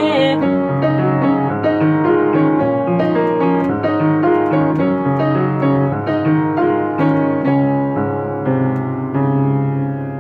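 Solo piano playing the song's closing bars after the singing has ended, with a final chord struck near the end and left ringing as it fades.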